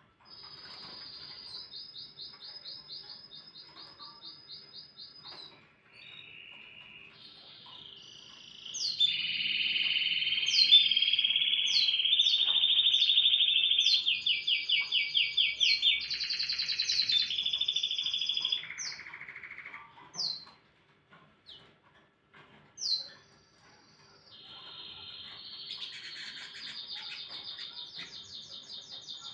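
Domestic canary singing: a long song made of rapid trills and repeated phrases, each held a few seconds before switching to the next. It is loudest in the middle, then breaks into a few sharp single chirps before a final trill.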